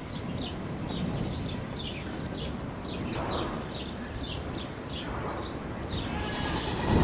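Small birds chirping throughout: many short, high, quickly falling chirps, several a second, over a steady low rumble.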